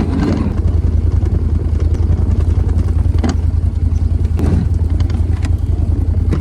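A vehicle engine running steadily, a deep continuous rumble, with a couple of faint knocks or rattles in the middle.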